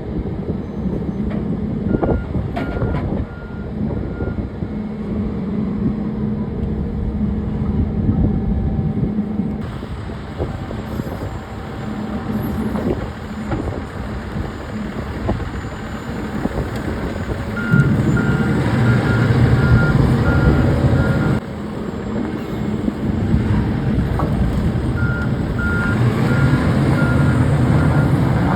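A vehicle's reversing alarm beeping in three runs of evenly spaced high beeps, over a steady diesel engine rumble that grows louder for a few seconds in the middle.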